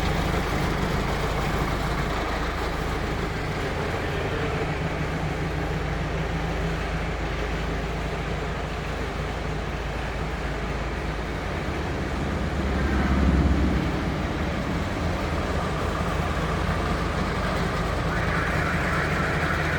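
A vehicle running steadily with engine hum and road noise, swelling louder briefly about two-thirds of the way through.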